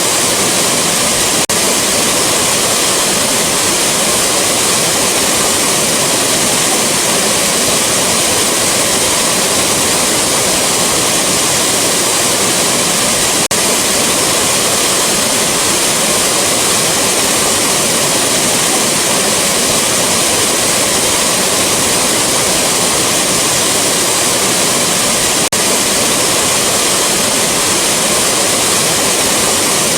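Rushing waterfall: a loud, steady rush of falling water, with a brief momentary dip about every twelve seconds.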